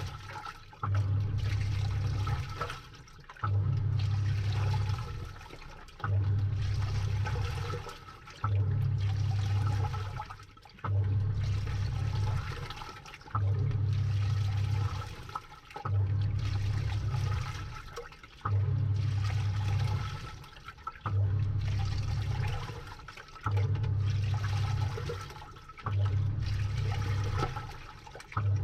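Samsung 6.5 kg top-load washing machine agitating a load from inside the drum: the pulsator motor drives in repeating strokes about every two and a half seconds, each starting with a sudden hum that dies away, while water sloshes through the clothes.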